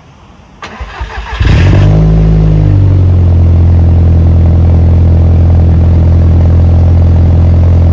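Car engine starting: it catches with a burst of revs that falls away over about a second and settles into a loud, steady idle.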